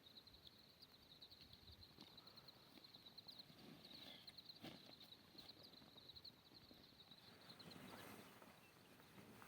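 Faint forest ambience: an insect trilling steadily at a high pitch, stopping near the end, with a couple of soft knocks and some rustling.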